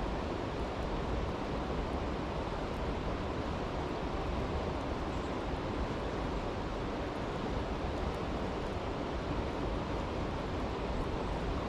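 Steady rushing of a brook, with a few faint crackles from a campfire.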